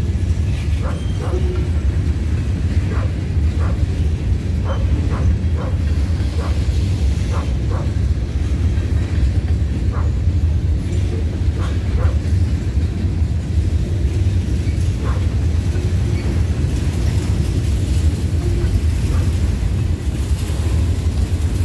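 Covered hopper cars of a freight train rolling past, a steady low rumble of steel wheels on rail. Scattered short, sharp clicks and squeaks come at irregular spacing.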